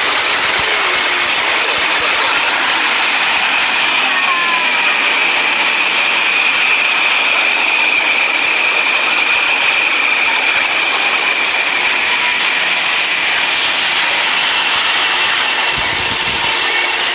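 A train running on the rails: a loud, steady rush of wheel and track noise, with a high, steady whine that grows stronger a few seconds in.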